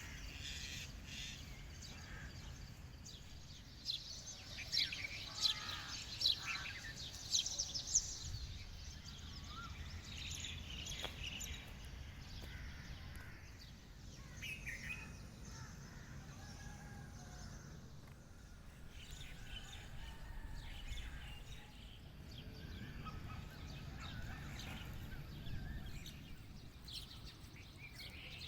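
Birds chirping and calling, with a flurry of sharp chirps about four to eight seconds in, over a steady low background rumble.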